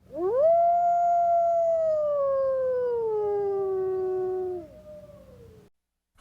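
A wolf giving one long howl that rises quickly at the start, holds steady, then slides slowly down in pitch before fading out.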